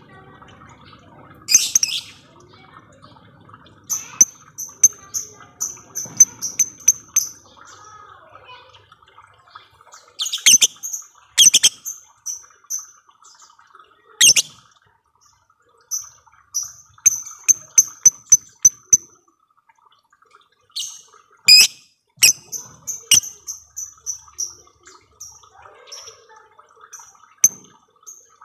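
Lovebird chattering: long runs of rapid high chirps, about five or six a second, broken by several loud, harsh shrieks. This is the fast 'ngekek' chatter of a lovebird in full song.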